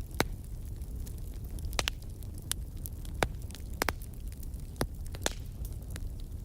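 Wood fire crackling in a fireplace: sharp, irregular pops and snaps over a low, steady rumble.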